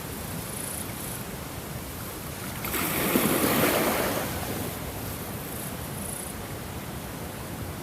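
Ocean waves washing in: a steady wash of surf, with one wave swelling and breaking louder about three seconds in, then easing back.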